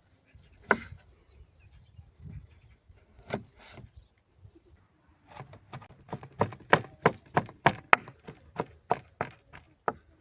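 Chopping on wood: a few separate sharp knocks, then a quick run of about three knocks a second through the second half.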